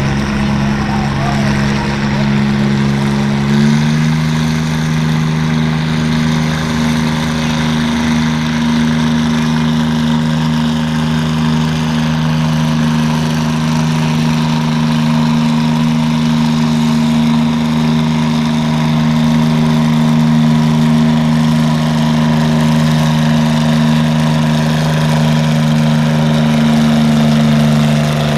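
Tractor engine running hard at a steady pitch, the kind of sound heard as a tractor pulls the sled down the track. Its pitch steps up a little about four seconds in, then holds.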